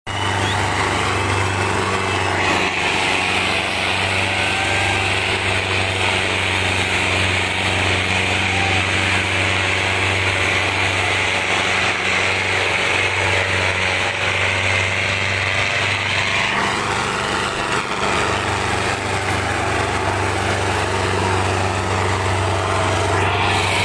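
Sonalika tractor's diesel engine running steadily with a deep drone, its sound shifting for a few seconds about two-thirds of the way through.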